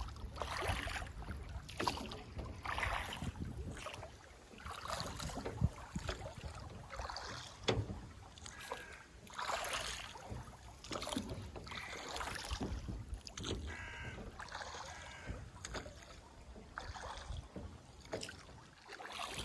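Water splashing and washing against the hull of a small boat under way, in a wave every second or two over a low steady rumble. A bird calls briefly a few times.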